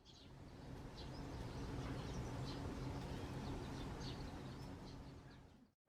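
Faint outdoor ambience: scattered short, high bird chirps over a steady low rumble and hum, fading in at the start and dropping out just before the end.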